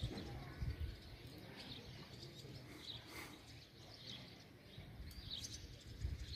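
Faint outdoor ambience: scattered short bird chirps over a low rumble.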